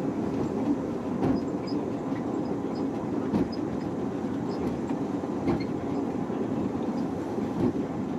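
Train running on rails: a steady rumble with a sharp knock every couple of seconds.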